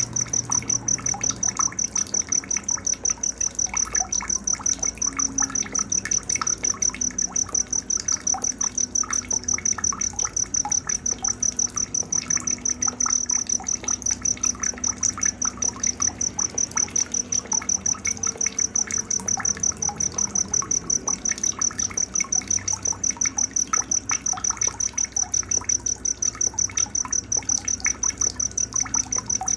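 Night insect sound: a cricket chirping in a fast, even, high-pitched pulse that never lets up, with fainter scattered chirps and clicks beneath.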